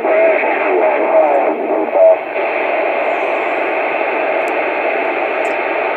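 CB radio speaker hissing with static on an open channel, with a garbled voice from a distant station breaking through the noise in the first two seconds before only steady static remains.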